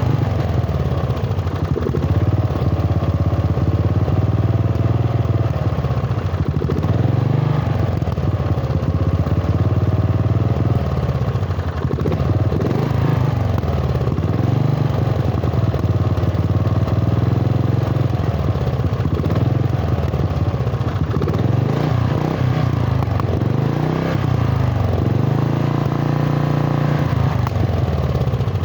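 Rebuilt lawn tractor engine running with its exhaust, revving up and falling back again and again.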